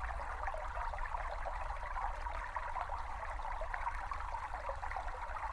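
A small brook babbling steadily over stones, a continuous bright trickling rush of water.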